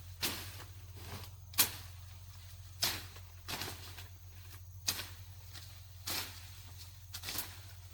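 A series of separate sharp knocks or impacts, irregularly spaced at roughly one a second, the loudest about a second and a half in, over a low steady hum.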